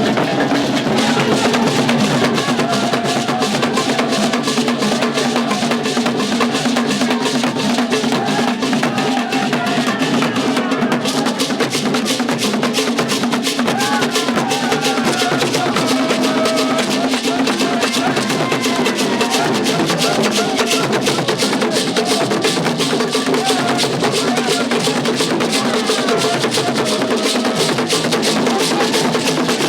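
Percussion music with fast, dense drumming that keeps up without a break, and wavering melodic lines over it.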